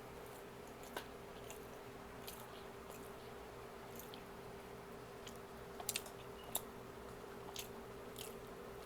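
Close-up chewing and biting while eating a fast-food breakfast, with scattered soft wet mouth clicks and a few sharper ones about six seconds in, over a faint steady hum.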